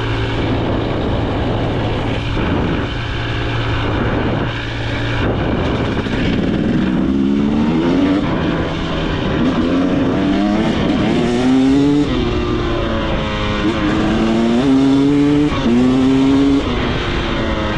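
KTM 300 XC two-stroke dirt bike engine running under load on a trail, over a steady rushing noise; from about seven seconds in it revs up repeatedly, its pitch rising in about six one-second pulls as the throttle is opened and closed.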